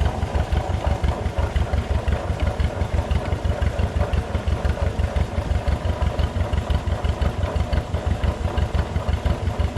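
An engine idling steadily with an even, rapid pulsing beat, several beats a second, that holds the same rhythm throughout.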